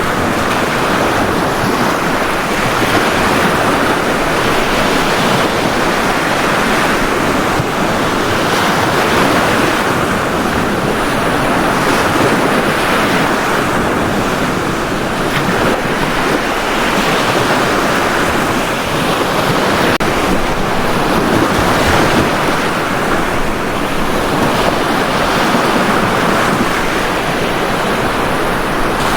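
Ocean waves breaking and washing on a beach, a steady surf that swells and eases every few seconds, with some wind noise on the microphone.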